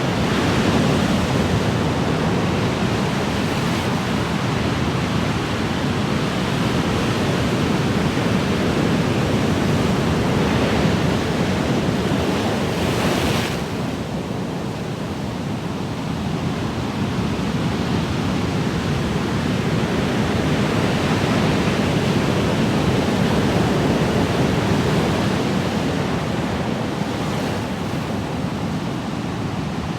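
Ocean surf: a steady rush of breaking and washing waves that swells and eases. A wave surges up about thirteen seconds in, and the rush settles a little lower after it.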